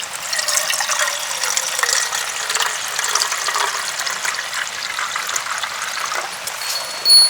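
Water pouring steadily for about six seconds, with a sharp knock near the end.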